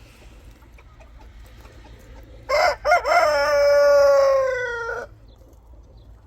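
A rooster crowing once, starting about two and a half seconds in: two short notes, then a long drawn-out note that falls slightly in pitch.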